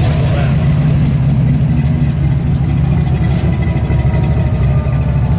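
First-generation Chevrolet Camaro's engine rumbling at low speed as the car rolls past and away, a steady deep exhaust note.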